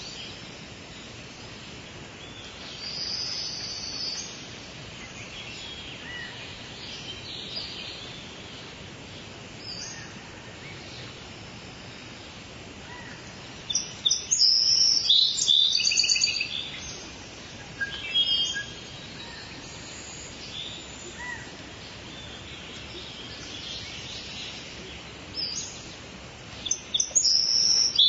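Steady rain falling, with songbirds chirping over it; the birds grow loud in a quick run of chirps about halfway through and again near the end.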